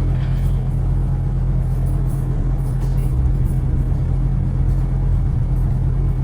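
City road traffic: a steady low rumble of car engines and tyres on the road.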